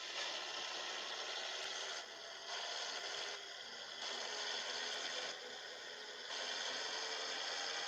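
Steady hissing rush of road and running noise from a Scania 111 truck on the move. Its level steps up and down every second or two.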